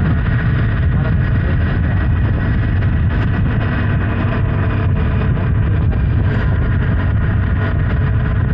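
Honda Hornet 900's inline-four engine running steadily while under way, with strong wind rumble on the microphone.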